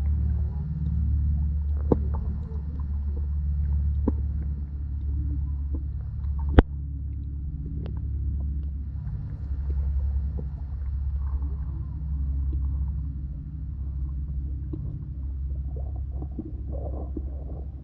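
Audio from a camera submerged in a creek: a steady, muffled low rumble of moving water, with sharp clicks now and then, the loudest about six and a half seconds in.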